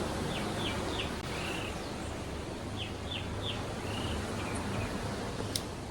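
A bird sings a short phrase of quick chirps, twice, about two seconds apart. Under it runs a steady wash of surf and wind noise.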